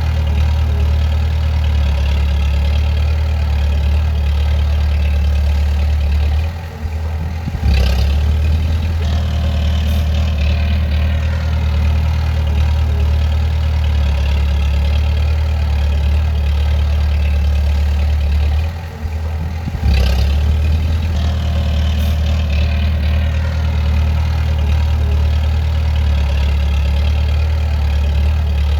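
Bulldozer's diesel engine running steadily with a deep hum. Twice, about seven and nineteen seconds in, it drops off briefly, then comes back up with a clank.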